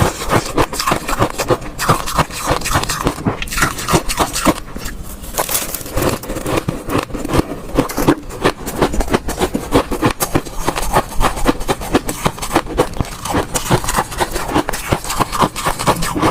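Ice cubes being bitten and chewed close to the microphone: a dense, continuous run of sharp cracks and crunches, with a brief lull about five seconds in.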